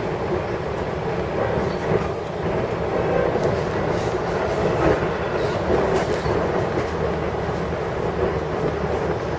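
Long Island Rail Road train running at speed, heard from inside a passenger car: a steady rumble of wheels on rails with a few faint clicks around the middle.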